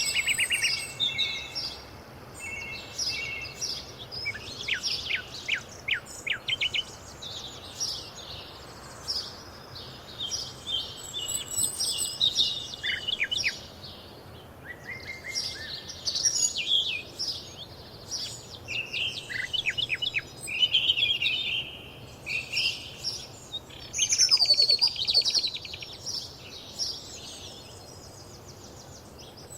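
A chorus of several songbirds singing and calling at once, with overlapping chirps, fast trills and whistled notes, over a faint steady background hiss.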